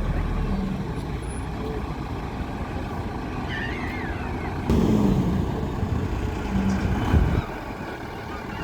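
Bus engine running with a low rumble and hum, growing suddenly louder about halfway through and easing off near the end.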